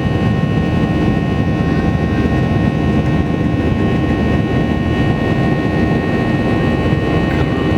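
Airliner engines running steadily during takeoff, heard from inside the cabin: a dense, loud rumble with several steady whining tones above it.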